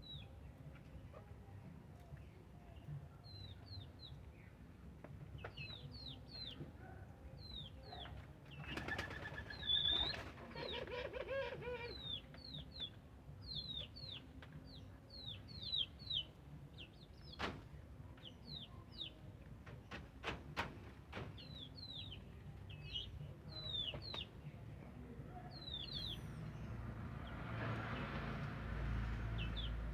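Birds chirping over and over with short, high, falling notes, with a few sudden bursts of wing flapping from the doves about a third of the way in, around the middle, and a longer rustle near the end.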